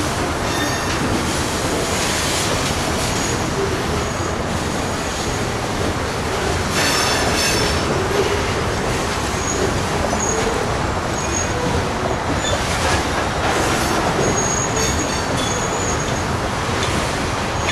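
Freight train of covered hopper cars rolling through the yard, its wheels running steadily on the rails, with short high-pitched wheel squeals now and then.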